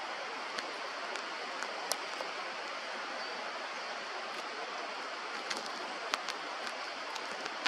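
Steady rushing of a flowing mountain stream, with a few faint sharp ticks scattered through it.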